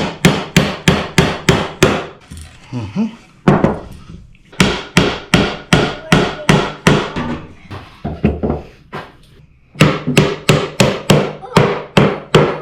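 Hammer striking wooden boards in quick, even blows, about four a second. The blows come in three runs, with short pauses about two seconds in and again about two-thirds of the way through.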